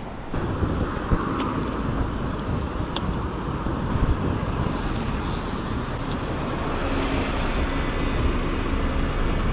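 Steady road traffic noise with a constant low rumble, heard while riding a bicycle along a city road.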